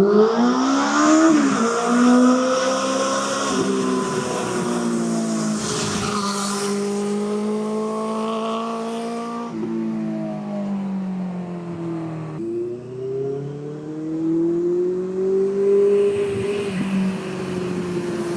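Benelli TNT600i inline-four motorcycle engine, running through an aftermarket IXIL exhaust in a tunnel. It is revved hard, its pitch climbing and then dropping sharply at several points like gear changes, and it climbs again near the end.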